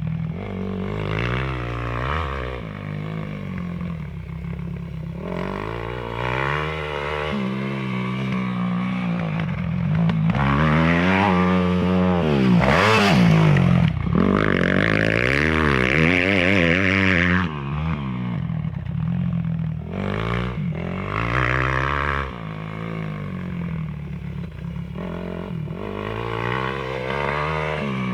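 Motocross motorcycle engines revving up and down through the gears as the bikes ride the track, the pitch rising and falling again and again. The sound is loudest about halfway through, as a bike passes close.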